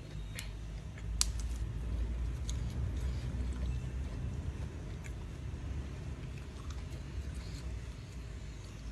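A person chewing a mouthful of crispy squid close to the microphone: a steady low, wet chewing sound, with a few sharp clicks, the loudest about a second in.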